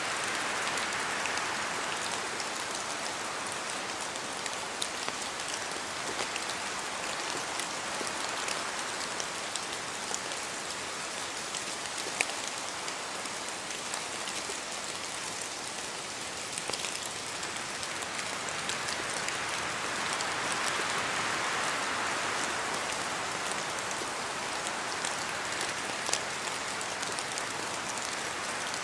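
Steady rain falling in a forest, with heavier drops falling from the trees and a few sharp single drips. The sound swells near the start and again about two-thirds of the way through.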